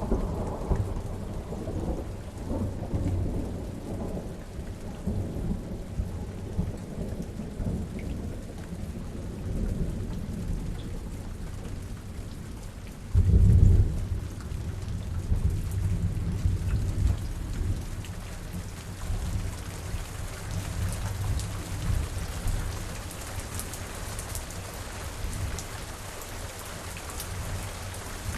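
Steady rain in a thunderstorm, with low rolling thunder rumbling on and off. One loud thunderclap comes about 13 seconds in. Near the end the rumbles die down and the hiss of rain grows stronger.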